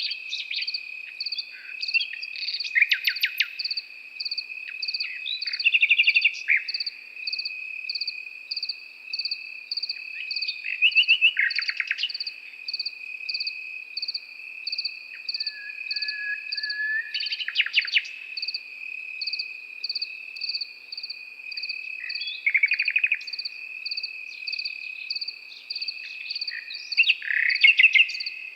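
Nightingale singing short phrases of rapid repeated notes every few seconds, the loudest sounds here, over crickets: a steady high trill and a higher chirp repeating about every two-thirds of a second.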